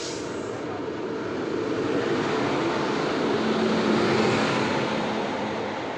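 Passenger train running on the track: a steady rush of rail noise that swells about three to four seconds in, then eases off. There is a short sharp click at the very start.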